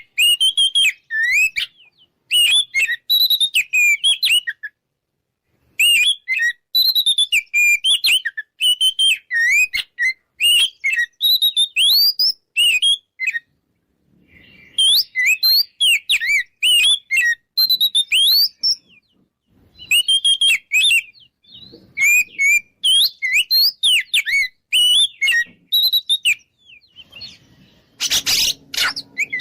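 Oriental magpie-robin (kacer) singing in full, continuous song: rapid, varied whistled notes sliding up and down, in phrases of a few seconds broken by short pauses. Near the end a harsh, rasping burst cuts in.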